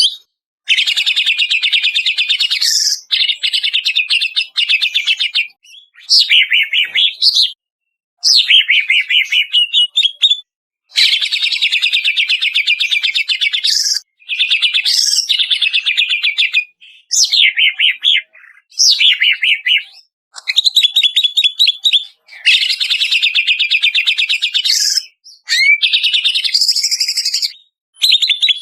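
Cucak ijo (greater green leafbird) song: repeated phrases of fast trills and gliding whistles, each about one to three seconds long, with short silent gaps between them.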